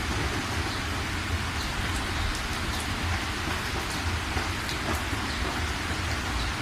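Steady rain: an even hiss with a deep rumble underneath and scattered single drops ticking through it.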